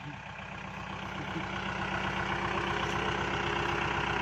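Tractor diesel engine running steadily, growing louder over the first couple of seconds and then holding level.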